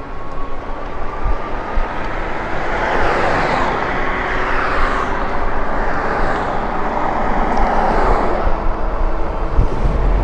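Road and wind noise while riding an e-bike, with a vehicle's noise swelling up and fading away in the middle.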